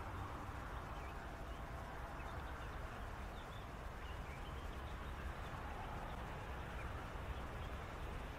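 Faint, scattered short chirps from small animals calling in a reed bed, over a steady low rumble.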